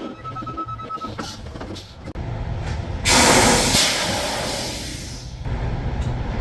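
Semi-truck's engine running at idle, with a loud hiss of air from the air brakes about three seconds in that fades away over two seconds or so. A steady high beep stops about a second in.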